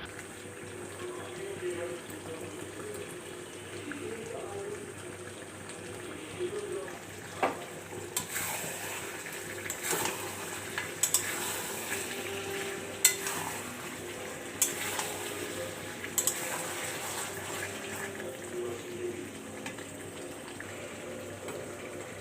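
Food frying in a pan with a steady sizzle while it is stirred. From about eight seconds in, a utensil clinks and scrapes against the pan again and again.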